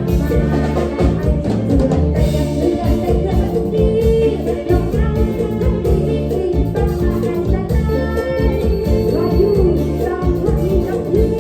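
Live Isan mor lam band music in the toei la style: a repeating electric bass line and drum beat under a wavering melody, with some singing.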